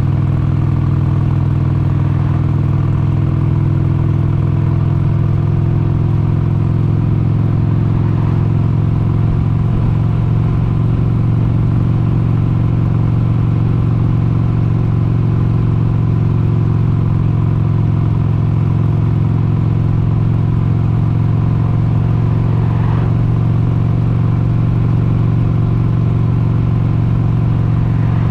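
1996 Harley-Davidson XLH883 Sportster's 883 cc air-cooled Evolution V-twin running at a steady cruising speed, a slight change in engine pitch a few seconds in, then holding steady.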